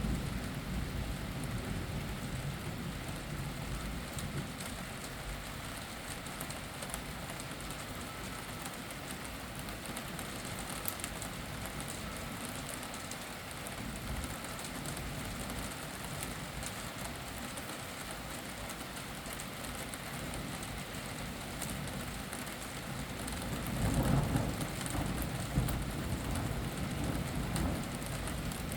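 Steady rain pattering, with a low rumble of thunder fading at the start and another rumble swelling near the end.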